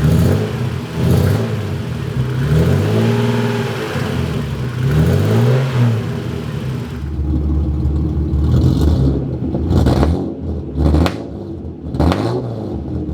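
Nissan RB30 straight-six engine free-revved several times, its note rising and falling, then settling lower with three sharp cracks near the end. The owners take the engine to be running rich.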